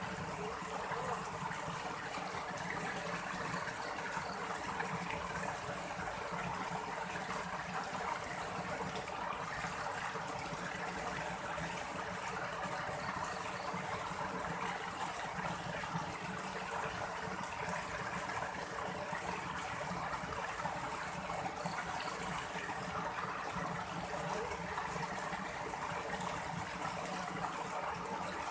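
Steady, even noise of water, unbroken throughout.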